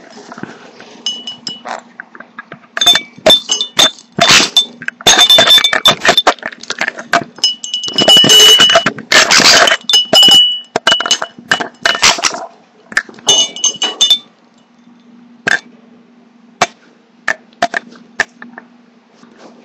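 A sun conure's beak pecking, biting and scraping at a plastic webcam right at its built-in microphone: loud clicks and crackling clusters. They come thickest in the first half, then thin out to scattered single clicks.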